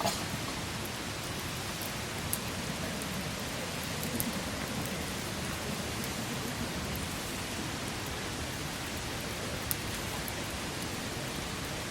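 Wood campfire burning with a steady hiss and crackle, with a few sharper pops.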